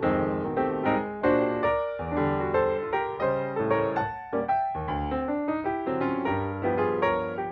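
Background piano music: a steady run of struck notes, each fading away, with no beat.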